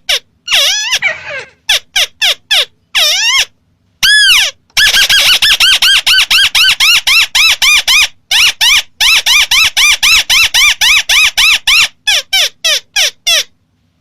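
Recorded call of the ruddy-breasted crake (tikusan merah) played as a hunting lure: a string of pitched notes, each rising and falling, repeated rapidly at about five a second in runs of several seconds, broken by abrupt silent gaps.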